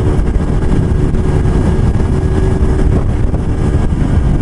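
Motorcycle engine running steadily while riding, with a dense low rumble of wind and road noise.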